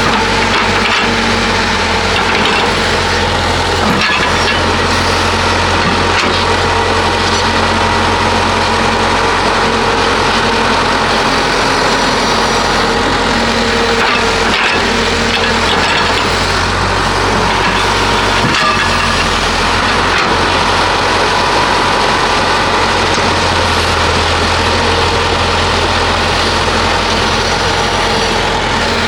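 Heavy diesel construction machinery running steadily with a constant drone and whine, with scattered cracks and knocks throughout.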